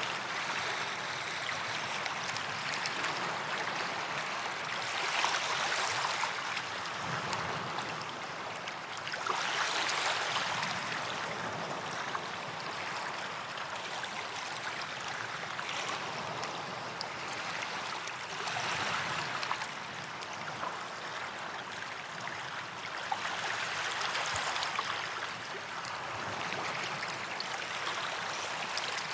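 Small waves breaking and washing up a sand beach, a gentle swell of surf about every four to five seconds over a steady hiss of water.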